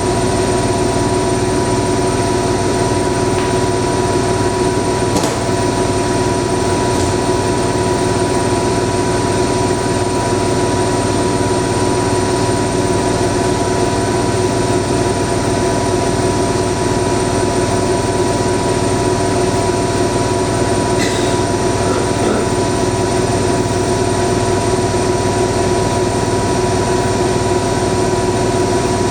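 AEG 7000 Series front-loading washing machine in its final spin, the drum turning at high speed with a steady motor whine and rumble. A few faint ticks come through at times.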